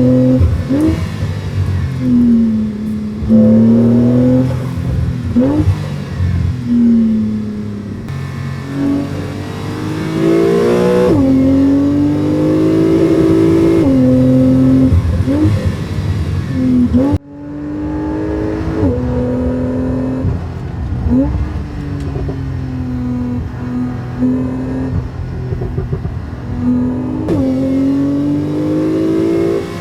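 Porsche 911 Targa 4 GTS twin-turbo flat-six running loud, its pitch climbing and then dropping again and again, as in hard acceleration through the gears, with a few short revs. The sound cuts off abruptly about 17 seconds in and picks up again.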